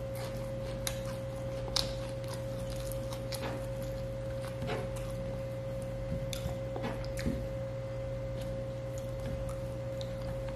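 Mukbang eating sounds: closed-mouth chewing, lip smacks and fingers working rice on paper, heard as scattered soft clicks every second or so over a steady hum.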